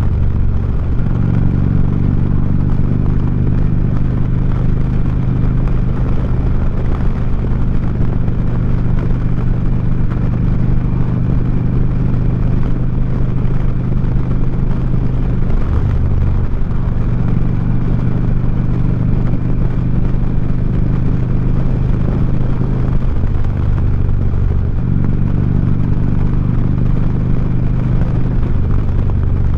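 Harley-Davidson Street Glide V-twin running at road speed through 4.5-inch Sharkroad slip-on mufflers, with wind noise. The engine note changes briefly about halfway through and again later, as with a shift or a change of throttle.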